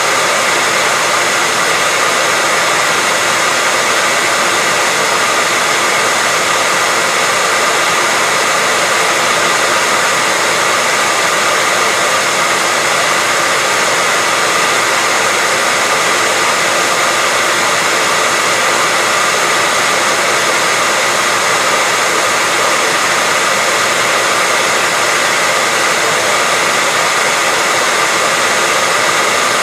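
Hair dryer running continuously at a steady speed: an even, unbroken rush of air with a faint whine from the fan motor.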